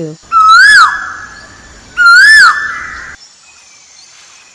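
Cuckoo call played twice, each a single whistled note that rises and falls, ringing on briefly after it.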